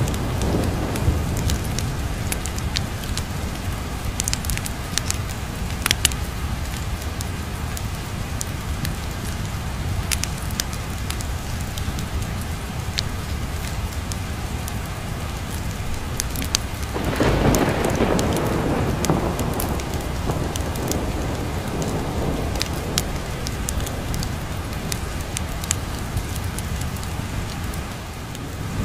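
Steady heavy rain with a low rumble of thunder underneath; a louder roll of thunder swells up about two-thirds of the way through and fades over a few seconds. Scattered sharp crackles sound throughout.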